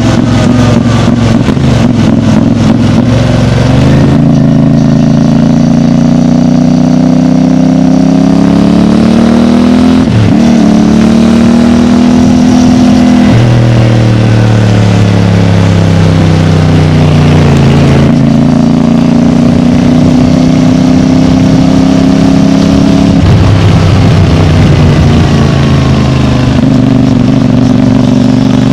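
CFMOTO 450MT's parallel-twin engine running through its stock exhaust, the note rising and falling slowly over several seconds with a few sudden steps in pitch.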